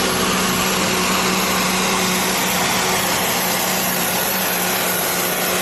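Steady, loud engine-like mechanical noise with a constant low hum running under it.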